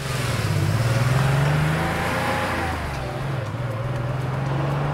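Car engine sound effect running, its pitch rising over the first second or two, dipping briefly and then holding steady.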